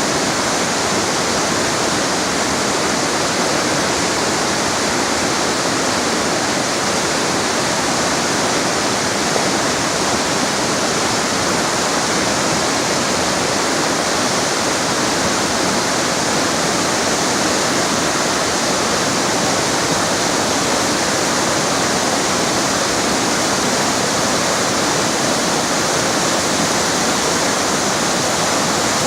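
Little Nestucca River rushing over rocks: steady loud water noise with no change.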